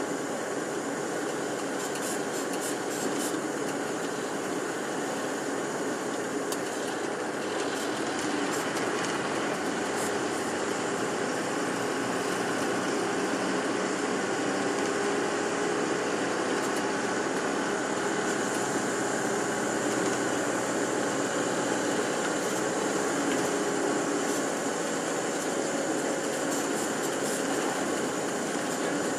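Tour bus driving along a road, heard from inside the cabin: steady engine and road noise, with a few light clicks in the first ten seconds.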